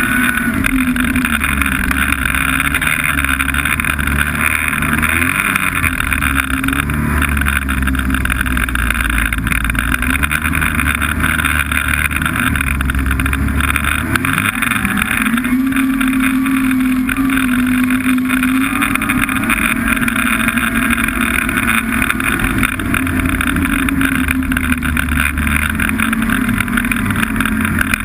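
Snowmobile engine running under way, loud and steady, its pitch rising and falling with the throttle.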